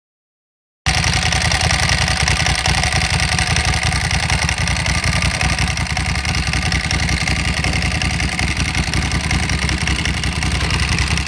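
Motorcycle engine running steadily: a heavy, fast-pulsing low rumble with a hiss of noise over it. It starts abruptly about a second in and is cut off at the end.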